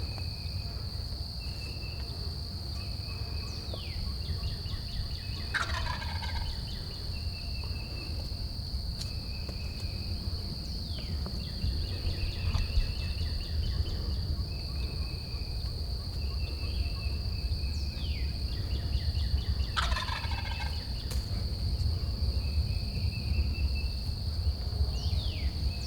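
Eastern wild turkey gobbling twice, about fourteen seconds apart, each gobble a loud rattling call that falls in pitch, over a steady high insect drone.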